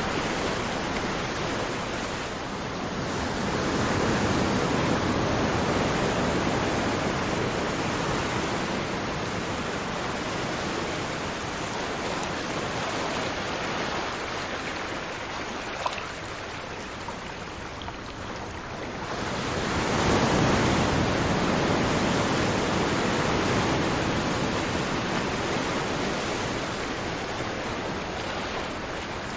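Ocean waves washing on a shore, a steady rush of surf that swells about four seconds in and again about two-thirds of the way through, easing in between. A single small click comes a little past the middle.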